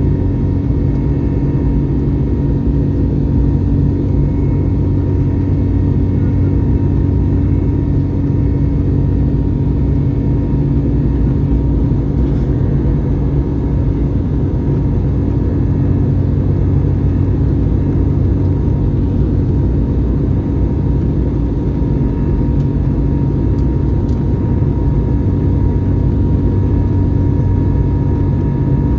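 Steady cabin drone of an Airbus A321neo under engine power: its Pratt & Whitney geared turbofans and the rushing air, with a low hum and a thin, steady high whine.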